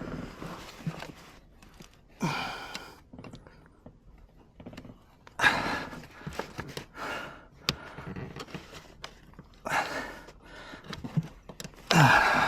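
A person breathing out hard in short bursts while working, with a few sharp clicks and knocks from handled parts.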